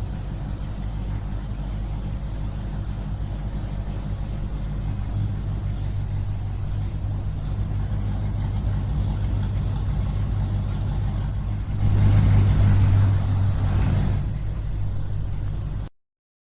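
Small engine of a mini DIY tractor running steadily, louder for about two seconds near the end, then cutting off abruptly.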